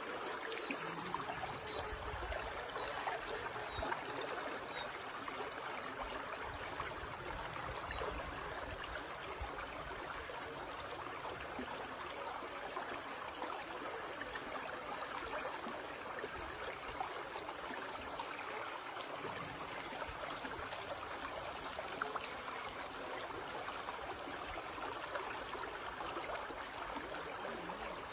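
A stream flowing steadily, a continuous even rush of water.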